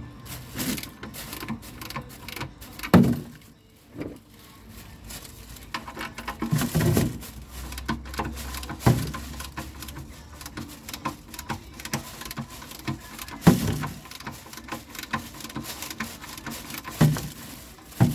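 Irregular clicks, knocks and clatter of hand tools and parts being handled, with a few louder thumps about three, thirteen and seventeen seconds in.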